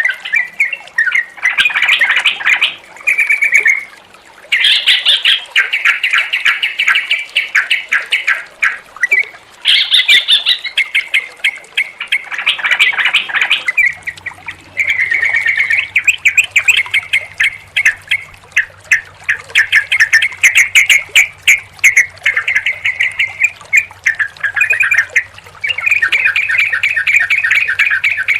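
Yellow-vented bulbuls (trucukan) chattering and singing in loud, rapid runs of bubbly notes, in bursts of a second or several with short pauses between. A faint steady low hum lies underneath and changes about halfway through.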